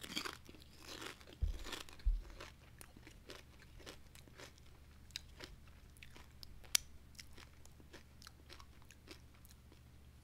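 A person crunching and chewing a crisp chip: a run of irregular crisp crunches, with two dull thumps about one and a half and two seconds in.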